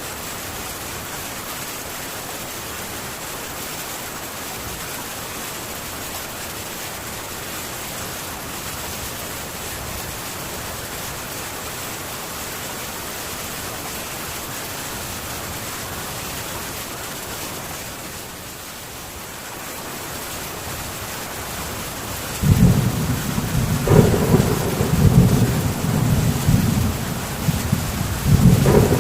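Heavy rain falling steadily on a metal tin roof. About two-thirds of the way in, a loud, low rumble of thunder starts suddenly and rolls on to the end.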